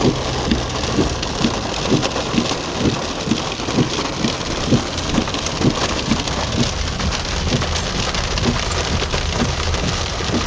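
Heavy rain falling, with individual drops striking a hard surface close by, a few times a second.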